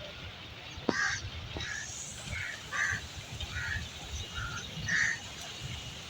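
Short animal calls, about eight of them spaced irregularly, over a low background rumble.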